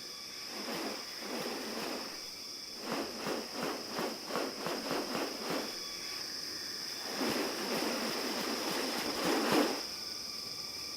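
Rainforest ambience: insects keep up a steady high drone. Over it come noisy swishes: a quick run of about three a second in the first half, then a longer swell that peaks and stops shortly before the end.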